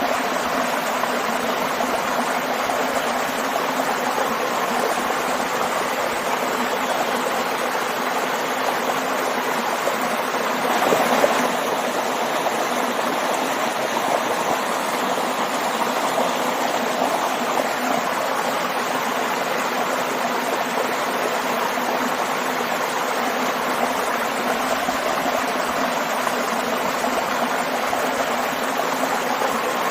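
Stream and small waterfall rushing and splashing steadily, with a brief louder surge of water about eleven seconds in.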